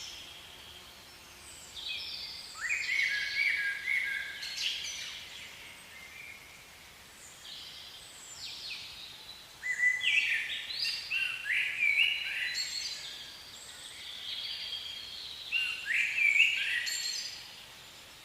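A bird singing in three bouts of quick, stepped chirping notes, with quieter pauses between them.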